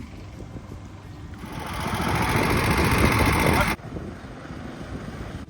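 Long-tail outboard motor on a small homemade catamaran running under way. About a second and a half in, a much louder rushing noise swells up, then cuts off abruptly before four seconds, leaving the lower rumble of the motor.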